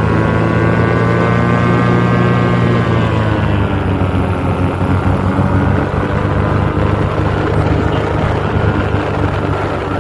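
Paramotor engine and propeller running steadily in flight, the engine note easing slightly lower about three seconds in.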